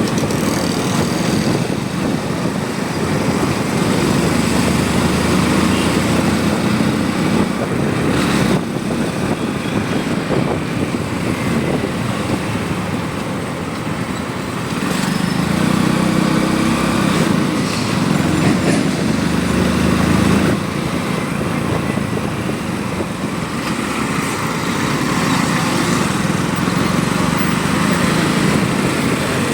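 Motorcycle engine running steadily while riding, with road and wind noise. The engine eases off near the middle, then picks up again.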